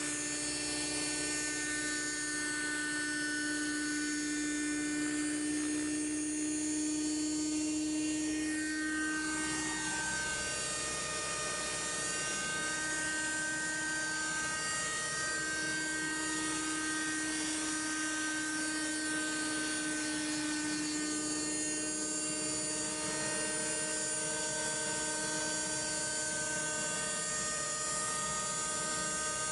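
Thunder Tiger Raptor 30 nitro RC helicopter in flight: a steady high-pitched whine from its glow engine and rotors. The pitch dips briefly around nine seconds in and shifts again a little after twenty seconds.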